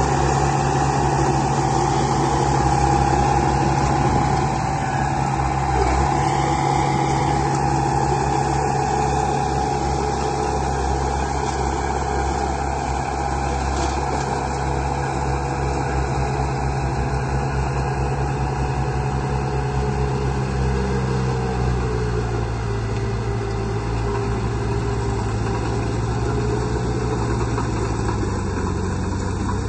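Heavy vehicle's diesel engine sound idling steadily with a low pulsing throb, its pitch dropping slightly about two-thirds of the way through and rising a little near the end.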